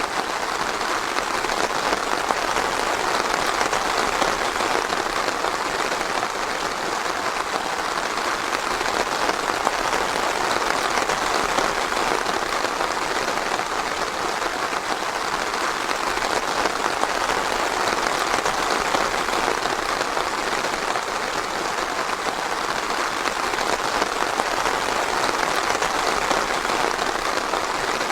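Steady, even rain falling on a forest, a dense patter with no thunder.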